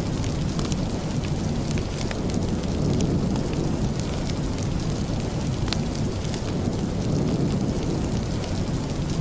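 Steady rain, heavy and even with most of its weight low down, with scattered small sharp ticks on top.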